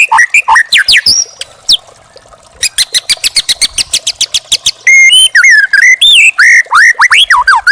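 White-rumped shama (murai batu) singing: fast rising and falling whistled notes, a brief pause about two seconds in, then a rapid run of short repeated notes and, from about five seconds in, loud varied whistles and pitch glides.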